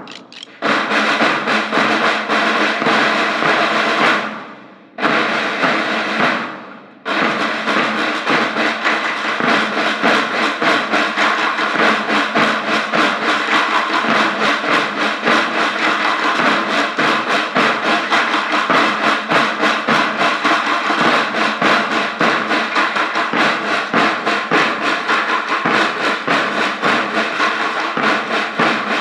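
A school band's drums playing fast, dense rolling beats. The playing fades out briefly twice in the first seven seconds, then runs on without a break.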